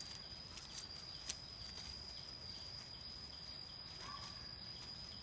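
Outdoor ambience: a steady high-pitched insect whine, a few sharp clicks, and a short chirp about four seconds in.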